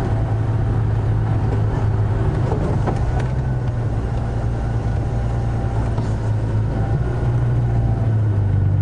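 Safari vehicle's engine running as it drives along, a steady low hum that grows a little louder near the end.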